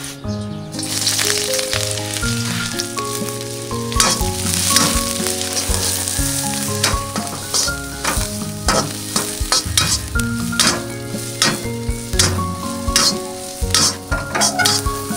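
Sliced lemongrass sizzling in hot oil in a wok, starting under a second in as it drops into the pan. A metal spatula scrapes and knocks against the wok as it is stirred.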